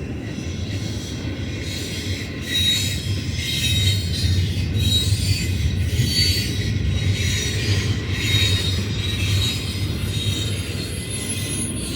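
Freight train cars rolling past, a steady low rumble with high-pitched wheel squeal coming and going; the squeal grows louder about two and a half seconds in.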